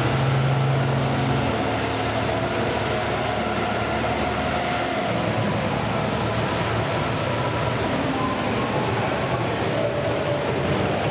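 The Mirage's artificial volcano show giving a steady, dense rumbling roar with a few faint held tones in it.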